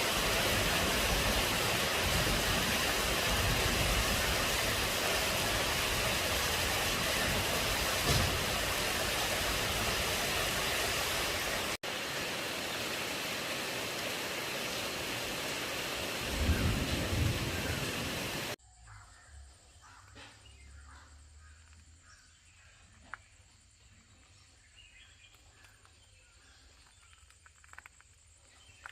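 Heavy rain falling in a steady, loud hiss, with a low rumble about two-thirds of the way through. It cuts off abruptly to quiet countryside ambience with faint insect chirps and occasional bird calls.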